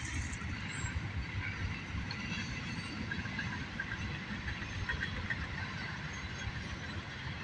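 CSX freight train rolling by: a steady rumble of wheels on the rails, with faint high squeaks now and then.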